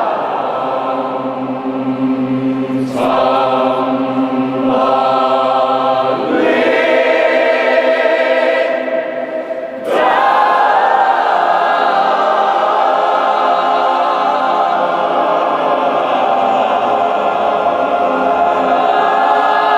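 Choir singing long, held chords, with sudden shifts to new chords about 3, 6 and 10 seconds in.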